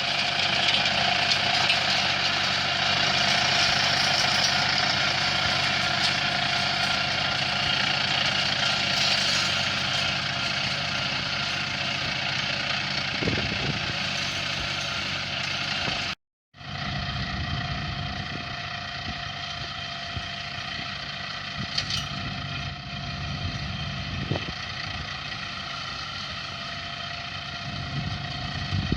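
Small engine running steadily at constant speed, slowly fading over the first half, broken by a sudden half-second gap about sixteen seconds in, then running on a little quieter.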